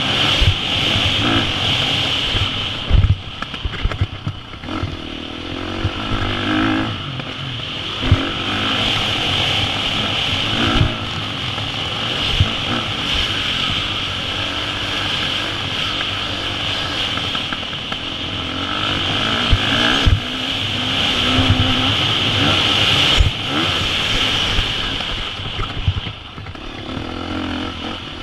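KTM 350 SX-F's single-cylinder four-stroke engine on board during motocross laps, revving up and backing off through the gears. Sharp knocks and thumps come now and then as the bike goes over the track's bumps and landings.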